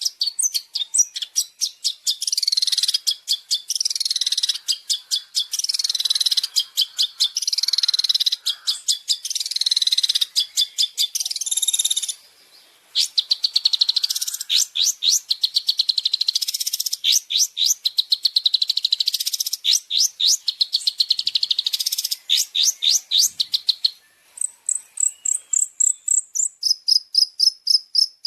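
Recorded songbird calls used to train a long-tailed shrike (cendet): fast, dense runs of high chirps with a short break partway through. Near the end these give way to a steady, insect-like high trill that switches between two pitches.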